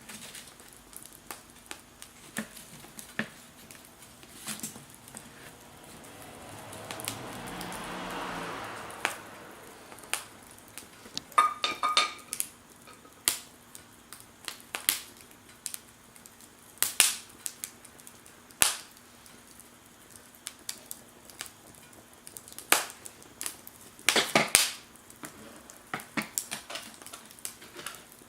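Wood fire crackling in a Firebox stove: irregular sharp pops and snaps, with a hiss that swells and fades about six to nine seconds in and a brief metallic clink near twelve seconds.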